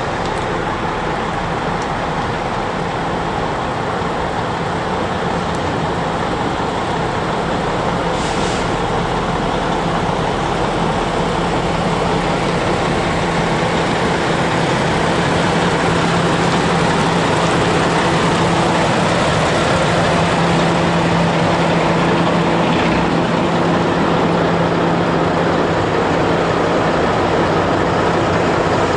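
Heavy trucks' engines running with a steady low hum over a general rumble; the hum grows louder about halfway through.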